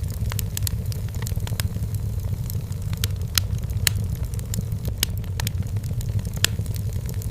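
Wood fire burning in a fireplace: frequent irregular sharp crackles and pops over a steady low rumble.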